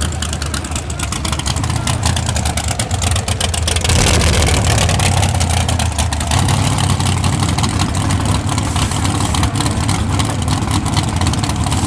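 Race truck engines running loud, with a rapid crackling exhaust note that gets louder and harsher about four seconds in.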